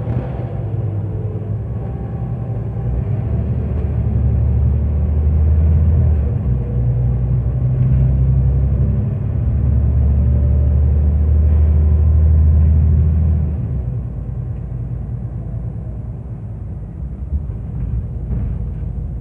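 Scania OmniCity single-deck bus engine heard on board, pulling away and accelerating with a strong low drone that dips twice briefly as the gearbox changes up. Its note then falls away and stays quieter near the end as the bus eases off.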